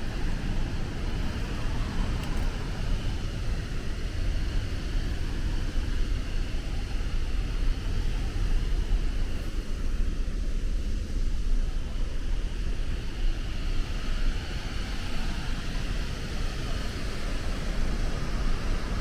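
Naena Falls, a large waterfall: a steady, unbroken rush of falling water with a deep rumble underneath.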